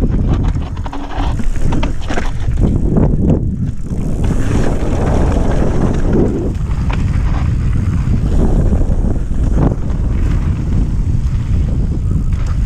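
Mountain bike descending a dirt trail: wind buffeting the action camera's microphone, with tyres rolling over the ground and the bike rattling and knocking over bumps.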